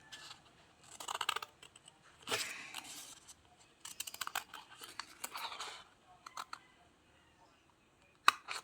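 Scissors cutting paper in three runs of short snips, with a sharp click near the end.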